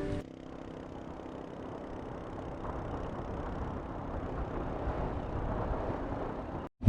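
Steady vehicle road noise, an even rumble and hiss that grows a little louder and then cuts off suddenly near the end.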